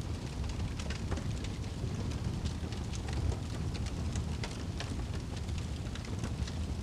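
Wood logs burning in a fireplace: frequent irregular sharp crackles and pops over a steady low rumble of the fire.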